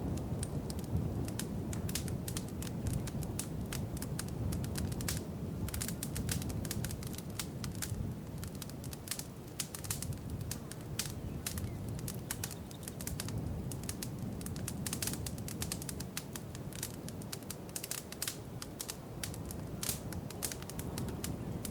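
Wood fire crackling in a fireplace: many sharp pops and snaps, irregular and closely spaced, over a low steady rumble of the flames.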